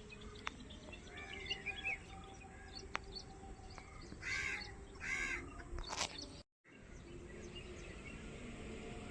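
Crow cawing twice in the middle, amid small birds chirping in the first couple of seconds, with outdoor background noise.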